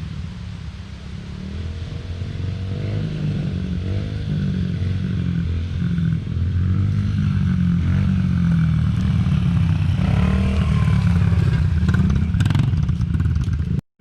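Dirt bike engine running and revving in rising and falling glides, growing louder over the first several seconds. The sound cuts out abruptly for a moment near the end.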